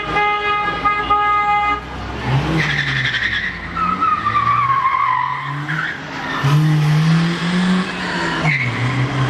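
A car horn sounds one steady note for nearly two seconds, followed by a mix of voices and vehicle noise rising and falling.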